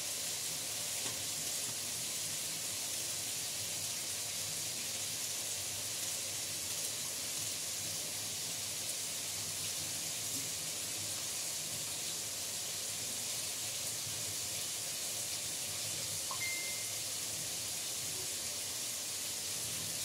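Tomatoes frying in oil in a karahi, a steady sizzle.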